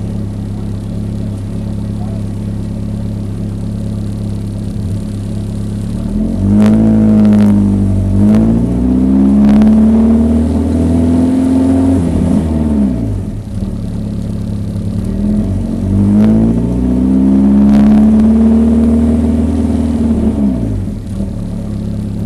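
1974 BMW 2002 race car's four-cylinder engine heard from the cockpit, running steadily at low revs, then revving up and back down twice, each rise lasting several seconds.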